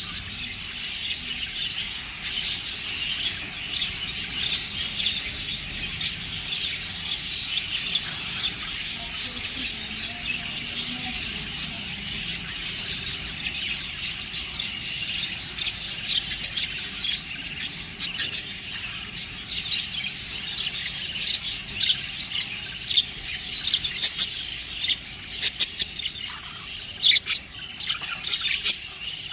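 Pet budgerigars chattering and chirping continuously, a dense run of high, rapid chirps with sharper loud ones scattered through, more often in the second half.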